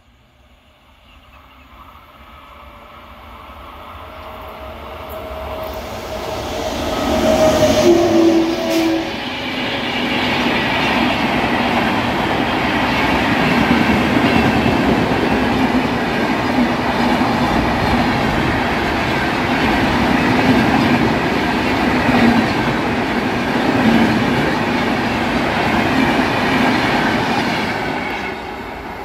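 Express train with LHB coaches passing at speed. It builds from faint to loud over the first several seconds and is loudest about eight seconds in. Then comes a steady rush of wheels on rail with a rhythmic clatter from the coaches, which drops away near the end.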